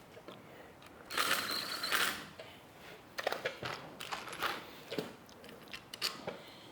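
Ratchet wrench snugging up suspension bolts: a run of rapid clicks about a second in, then scattered short metallic clicks and taps.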